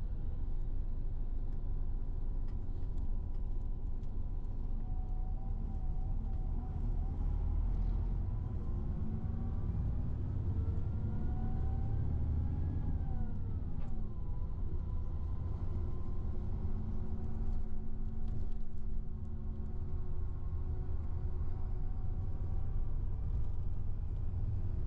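Road and engine noise inside a moving car: a steady low rumble, with a faint whine that rises in pitch as the car speeds up, then drops away about fourteen seconds in.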